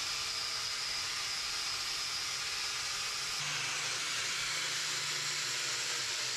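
Wire wheel on a power tool spinning against the steel truck bed, scrubbing off rust and old paint: a steady grinding hiss with a high whine, its tone shifting slightly about three seconds in.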